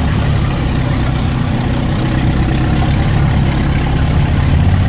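Off-road vehicle's engine running steadily at low revs, heard from inside the cab as it drives slowly.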